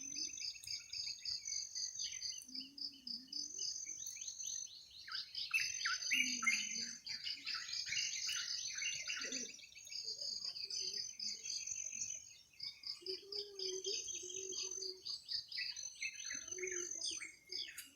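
Forest birds chirping and calling in a dense chorus, with bursts of quick falling chirps, over a constant high trill of rapid pulses typical of insects. Low wavering calls of about a second each come in now and then.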